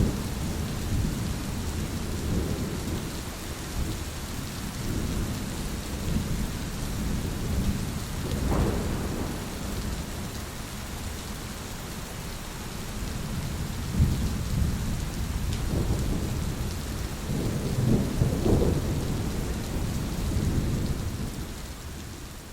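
Thunderstorm: steady rain hissing, under low rolling thunder that swells and fades, with louder rumbles about eight seconds in and again near eighteen seconds.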